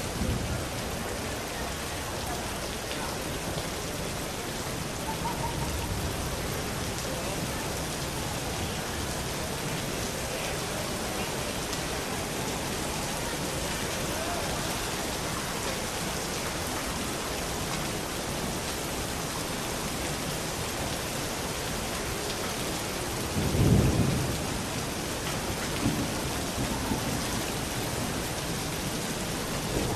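Steady rain falling, with a low roll of thunder about three quarters of the way through and a smaller rumble a couple of seconds after.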